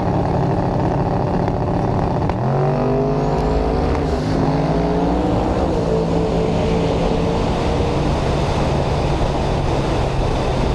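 Drag race car engine running hard at high volume, its pitch climbing about two seconds in and then holding steady.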